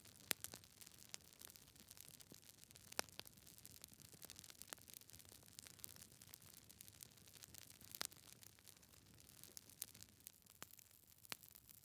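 Wood fire crackling in a fireplace: sharp pops of burning logs at irregular intervals, a few a second apart, over a faint steady hiss.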